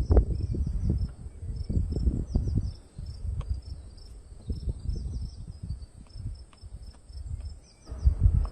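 Crickets chirping in short repeated trills, over a louder irregular low rumble that eases off midway and returns near the end.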